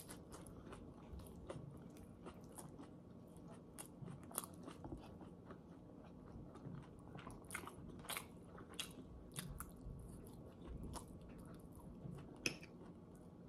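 Faint close-up chewing and biting of a person eating pad thai noodles, with small irregular wet clicks and smacks throughout.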